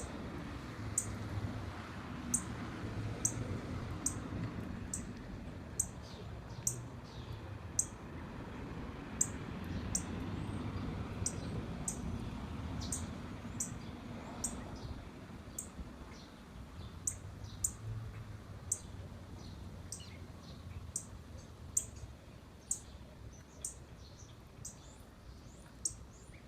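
A small songbird giving sharp, high chip notes over and over, about one to two a second, with fainter chirps from other birds. A low rumble runs underneath and eases off after about fifteen seconds.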